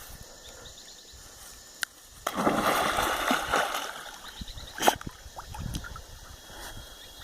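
Water splashing and sloshing, loudest for a second or two starting a little over two seconds in, with a sharp knock about five seconds in.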